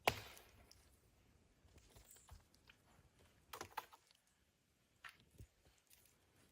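Scattered sharp clicks and light knocks: the loudest right at the start, a quick cluster of clicks about three and a half seconds in, and a couple more about five seconds in.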